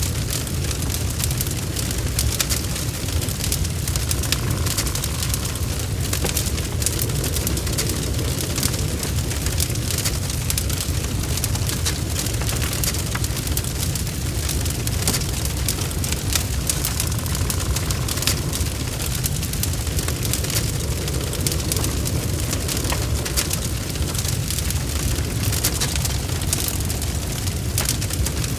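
Wood fire crackling in a fireplace, with many small pops over a steady low rumble.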